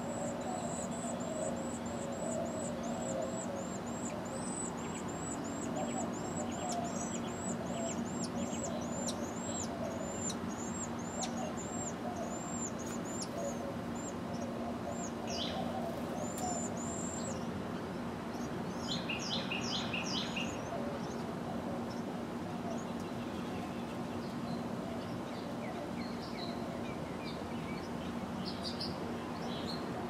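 Carolina wren nestlings in the nest chirping: thin, very high begging calls repeated about twice a second for the first half, then a short quick cluster of chirps, over a steady low hum.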